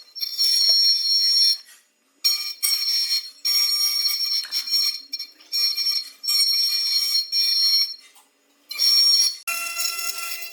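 High-speed milling spindle cutting wood: a high, steady whine with a hiss of chips. It comes in bursts with short breaks between them as the cutter goes into and out of the material. Near the end the whine drops to a lower, steadier tone.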